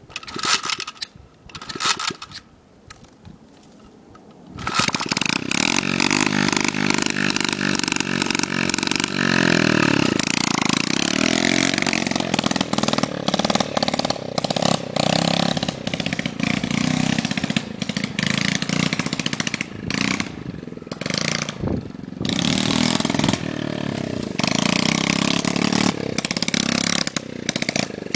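70cc dirt bike engine cranked twice briefly without catching, then starting about four and a half seconds in. It runs with repeated revving and several brief drops in throttle.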